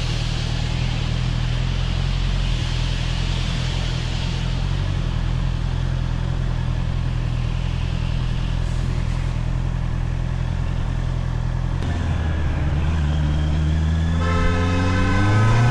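Honda CBR650R's inline-four engine running steadily at low revs, then revving up near the end, its pitch rising as the bike accelerates.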